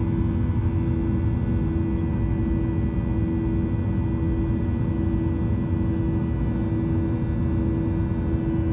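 Steady cabin noise of a Boeing 737-800 in flight: the deep, even roar of its CFM56 engines and airflow, with a steady hum running through it.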